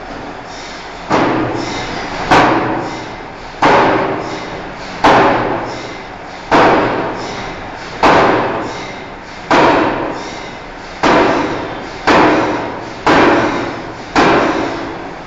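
Forging hammer striking a hot steel bar with a slow, even beat: eleven heavy blows about a second and a half apart, coming a little faster near the end, each ringing on and dying away before the next.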